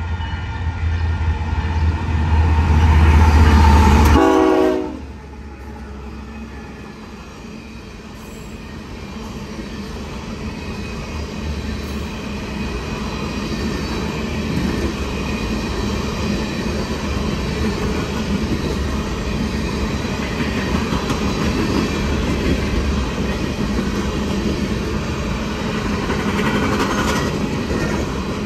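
Locomotive horn blowing a long salute over deep engine rumble, its pitch falling as it passes and cutting off about four seconds in. Empty coal hopper cars then roll past, their wheels clattering on the rails and growing louder.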